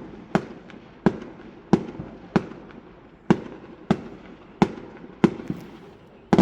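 A run of firework bangs, about nine sharp reports at slightly uneven intervals of under a second, each with a short echoing tail.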